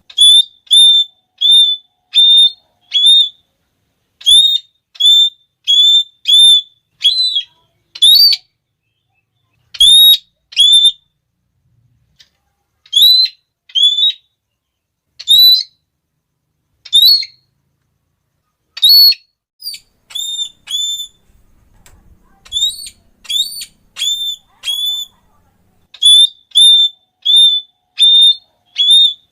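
Red-cheeked parrot (Geoffroyus geoffroyi) calling: loud, shrill, repeated 'klee' notes, about two a second in runs with short pauses, a few notes pitched higher than the rest.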